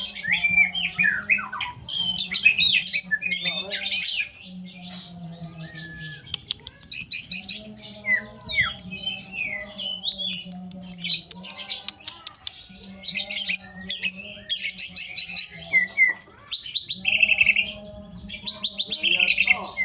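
Cucak ijo (green leafbird) singing continuously in rough, rapid rattling bursts, the harsh 'besetan' phrases prized by songbird keepers, mixed with short whistles that slide down in pitch.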